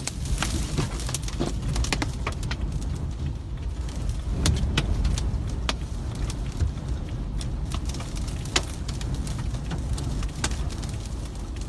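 Storm wind rumbling low and unevenly, with many scattered sharp ticks and knocks.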